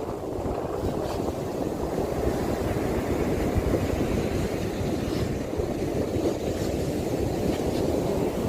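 Wind rumbling and buffeting on the microphone over the steady wash of sea surf on the beach.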